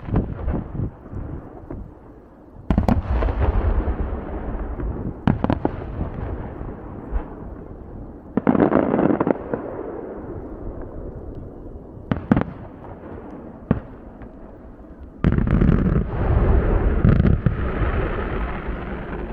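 Aerial fireworks shells bursting: a series of sharp booms a few seconds apart, each trailing off in a long echo, with a denser, louder run of bursts near the end.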